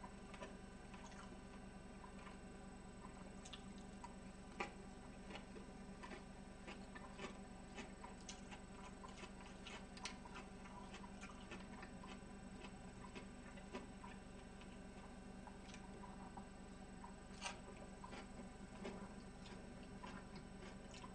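Faint eating sounds close to the microphone: scattered small clicks and smacks of chewing and chopsticks on a salad, with a slightly louder click about four and a half seconds in and another later on, over a steady low hum.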